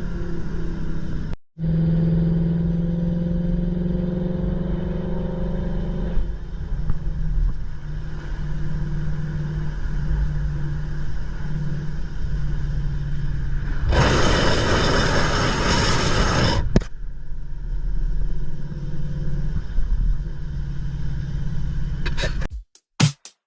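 Ford Mustang GT's V8 engine and exhaust running steadily while the car drives, with a low, even engine note. A loud rushing noise rises over it for a couple of seconds past the middle. Music with a drum-machine beat comes in near the end.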